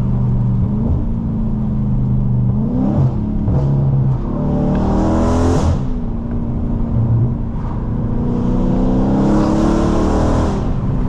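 Dodge Charger Scat Pack's 6.4-litre HEMI V8, straight-piped through catless mid-pipes and an MBRP race exhaust with no mufflers or resonator, rumbling as it cruises. It revs up hard twice, about four seconds in and again near the end, and each pull cuts off sharply.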